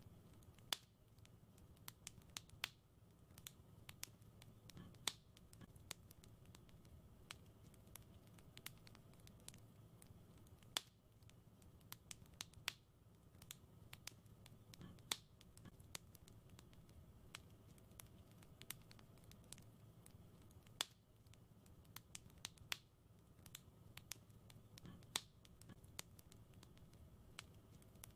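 Wood fire crackling: irregular sharp pops and snaps, several a second at times with louder single cracks every few seconds, over a faint low rumble.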